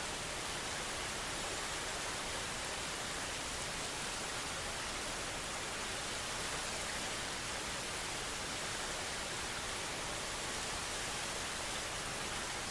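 Steady, even rushing noise of outdoor nature ambience, with no distinct events.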